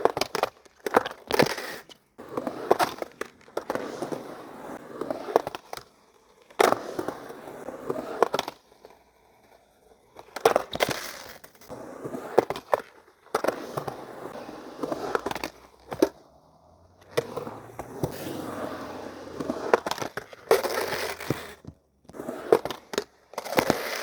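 Skateboard wheels rolling on hard pavement in repeated short runs, broken by many sharp clacks as the board and trucks hit the ground. There are brief quiet gaps between runs.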